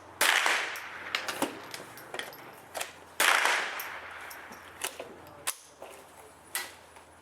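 Gunfire on a shooting range: two loud shots with long echoing tails, about three seconds apart, among several quieter, sharper shots scattered through.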